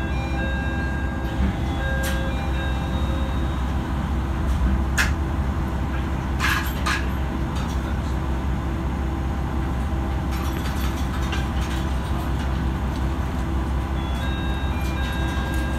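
Matsuura Railway MR-600 diesel railcar running along the line, heard from inside the car: a steady low rumble, with a few sharp clicks from the wheels about five to seven seconds in.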